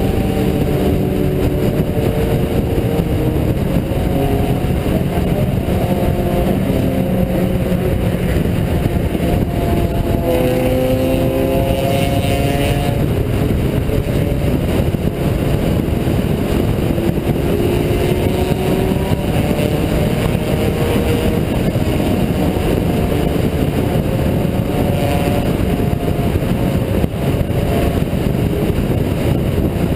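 Honda Integra DC2's four-cylinder engine heard from inside the cabin, pulling under load with its pitch climbing in several pulls and breaking off between them, over steady road and wind noise.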